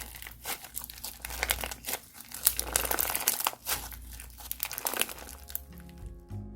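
Crunchy slime being squeezed and pressed by hand, giving off dense, irregular crackles and pops. A plucked-string tune fades in near the end.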